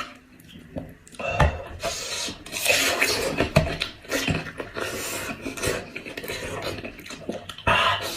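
Close-up eating sounds from a cooked goat head being eaten: irregular gnawing, chewing and scraping of meat off the bone, with a few soft thumps.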